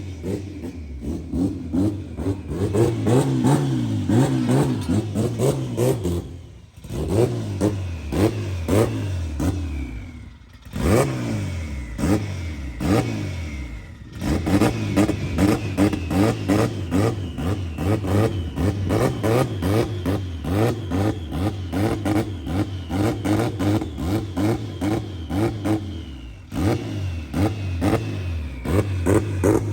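Turbocharged Honda B-series four-cylinder in an EK Civic revving hard under acceleration, its pitch climbing repeatedly. The level drops briefly about six, ten and fourteen seconds in and again near the end, as the throttle comes off between pulls.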